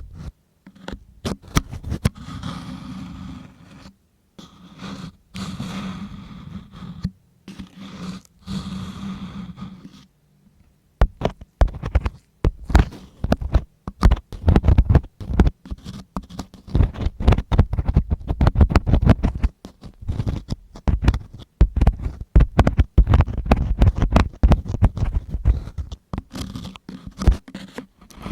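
Close-miked ASMR ear cleaning: a cleaning tool rubbing against the microphone in long, smooth strokes for about the first ten seconds, then dense, rapid scratching with crackly clicks.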